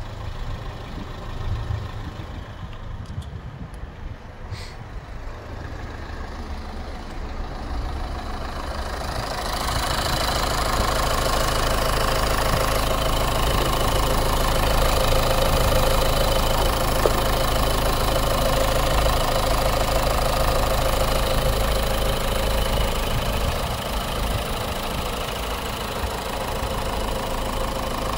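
Nissan Note's 1.5 dCi four-cylinder diesel engine idling steadily. It is heard at the exhaust at first, then louder and fuller from about ten seconds in, up close from the open engine bay.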